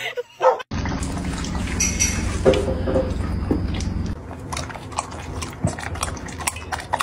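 Small dog lapping water from a stainless steel bowl, quick wet laps at about three a second in the second half, over a steady low hum that stops about halfway.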